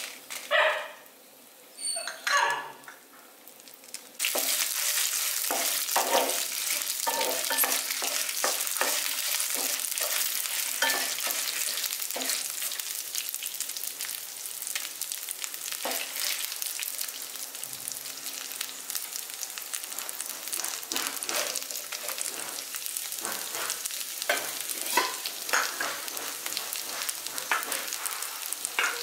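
Dal, dried red chillies and chopped onion frying in hot oil in a nonstick pan: a dense sizzle that starts suddenly about four seconds in, with the scrape and tap of a spatula stirring. Two short yelps sound in the first three seconds, before the sizzle.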